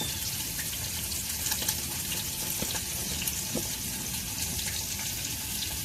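Food frying in a pan over a campfire: a steady sizzle with small crackles and pops.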